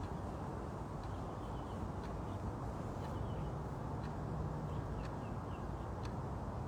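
Small birds chirping in short, falling high notes, in scattered little clusters, over a steady low background rumble.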